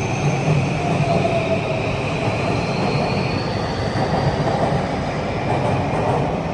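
Tokyu 3020 series electric commuter train running, with a steady rumble and rail noise under a faint high whine that rises slowly through the first few seconds.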